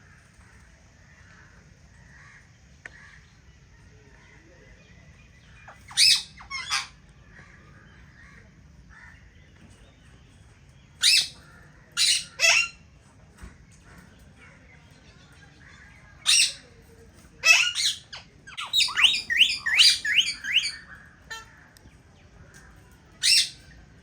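Indian ringneck parakeets giving loud, harsh squawks: single calls and pairs spaced out, with a rapid run of calls a little past halfway.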